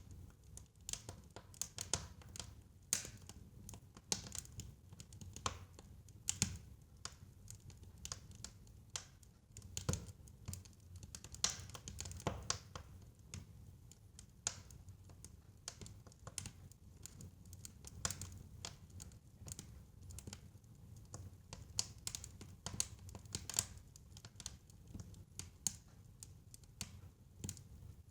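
Fire in a fireplace crackling: irregular sharp snaps and pops, a few each second, some louder than others, over a steady low rumble.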